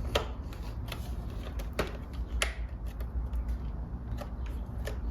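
Plastic motorcycle fairing panel being handled and pushed onto its mounting tabs, making a few sharp plastic clicks and light rattling over a low steady hum.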